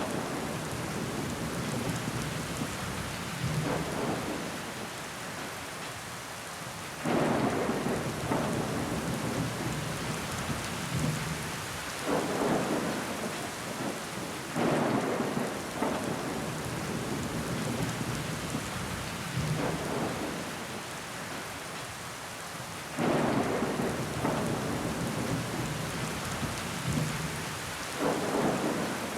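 Rain pattering steadily on a window pane, with sudden louder swells every few seconds that fade away again.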